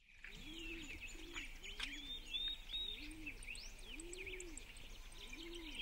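Songbirds chirping and whistling in quick, varied high notes, over a low call that rises and falls and repeats every half second or so.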